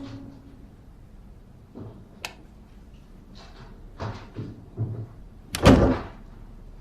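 A door shutting with a heavy thud about two-thirds of the way in, preceded by a sharp click and a few light knocks.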